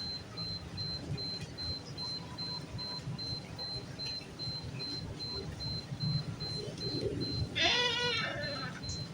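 Steady rain with a faint pulsing high tone running through it, and one wavering, bleat-like animal call lasting about a second near the end.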